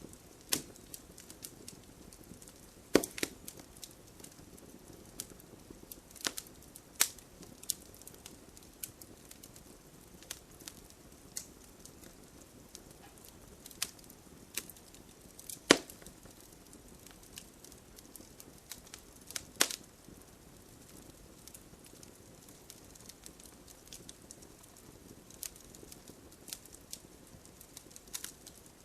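Campfire of burning wood crackling, with irregular sharp pops and ticks over a faint steady hiss. A handful of louder, snapping pops stand out, the loudest about a third and two-thirds of the way through.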